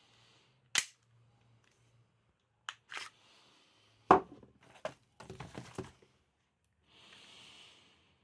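Sharp clicks and clacks of a KWC Taurus PT24/7 PRO DS airsoft pistol being handled and taken apart. The clicks are single and spaced out, the loudest about four seconds in, followed by a quick run of smaller clicks and a brief soft hiss near the end.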